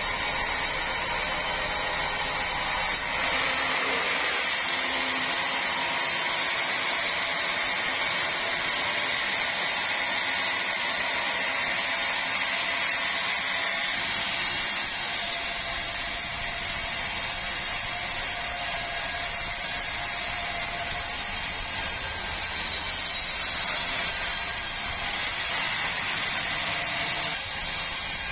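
Powered saw running steadily as it cuts through a large meranti log, its tone shifting about three seconds in and again about halfway through.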